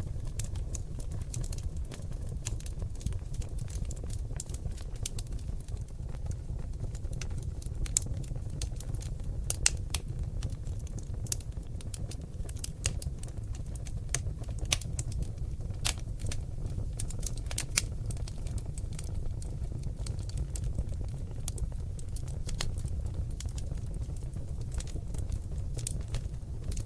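Oak log fire in a fireplace crackling: irregular sharp snaps and pops over a steady low rumble, with a few louder pops standing out.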